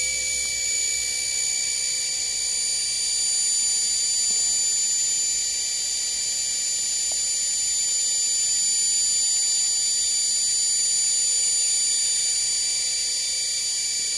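Washing machine motor running steadily on a DC power supply at several thousand RPM, giving a constant high-pitched whine over a rushing noise.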